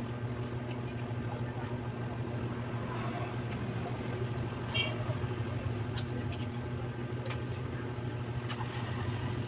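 A steady low mechanical hum, with a few faint clicks and a brief high chirp about five seconds in.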